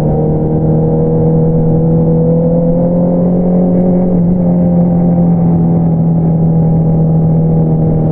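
Exhaust note of a Honda CBR650R inline-four through an Akrapovič single-outlet exhaust, running at steady cruising revs. The pitch rises slightly over the first few seconds, then holds even.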